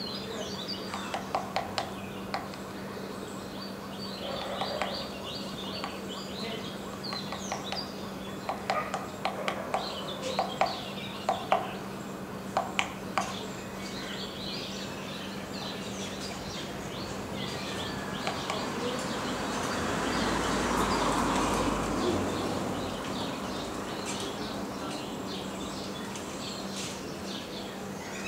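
Black-rumped flameback woodpecker pecking at a tree: irregular single sharp taps, scattered through the first half, with a tighter run of taps about halfway in. Other birds chirp throughout, over a steady low hum, and a broad rushing noise swells and fades about two-thirds of the way through.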